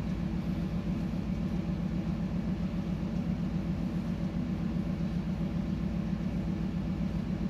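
Steady low drone of a ship's engine, unchanging throughout.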